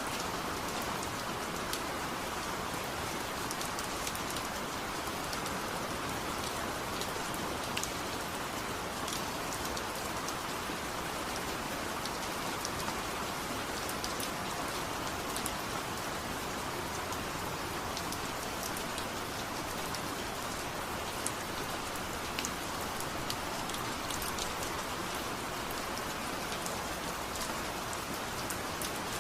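Steady rain with scattered drop ticks.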